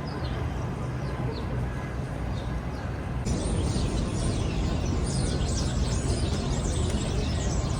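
City outdoor ambience: a steady low traffic rumble with small birds chirping over it. About three seconds in the sound changes abruptly, and from then on the chirping is dense and busy.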